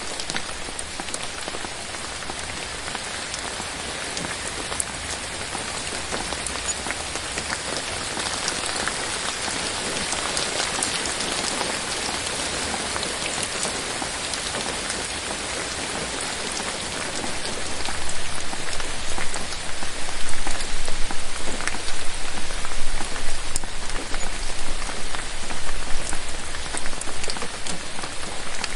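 Steady rain falling in a forest, a dense patter of drops on leaves. It grows louder and more uneven a little past halfway.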